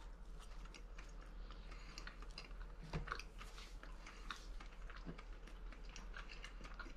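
People chewing toast with a spread: faint, scattered crunching and small crackles, with one slightly louder crunch about three seconds in.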